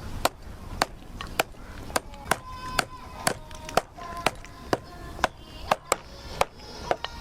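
Wood being struck over and over in an even rhythm, about two sharp hits a second, as firewood is worked with a tool that is not suited to the job. Faint music plays underneath.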